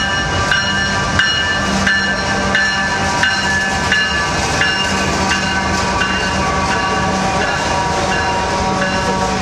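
CSX diesel freight locomotives passing close by at low speed: a steady engine hum and rumble, with faint regular clicks of wheels over rail joints about every two-thirds of a second. Thin high ringing tones hold for a moment and then shift in pitch.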